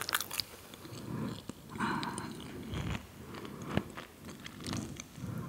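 Close-miked chewing and biting of a crunchy salty snack: irregular small crunches and mouth sounds.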